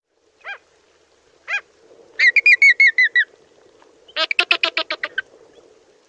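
A bird calling: two single calls about a second apart, then two quick runs of about eight to ten calls each, a second apart.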